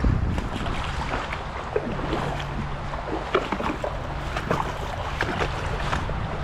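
Irregular splashing and clicking in a shallow creek, water and stones knocking, over a steady low rumble.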